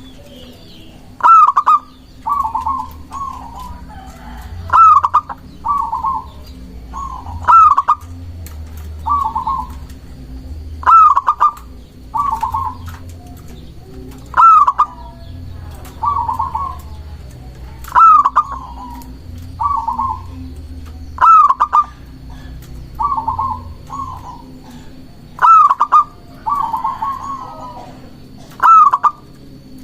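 Zebra dove (perkutut) singing its cooing song. Each phrase opens with one loud note and is followed by two or three softer, trilled coos, and the phrases repeat about every three seconds.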